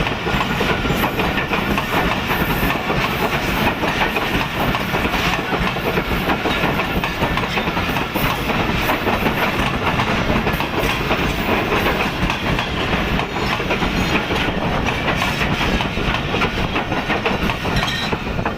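Passenger train running past at speed, a steady rumble with the wheels clattering over the rail joints.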